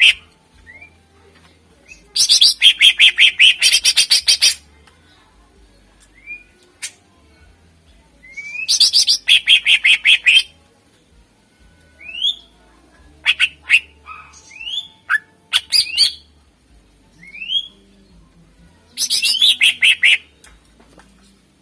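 Greater green leafbird (cucak ijo) singing. It gives three loud bursts of rapid-fire chattering notes, each one to two seconds long, with short rising whistled notes in the gaps between them.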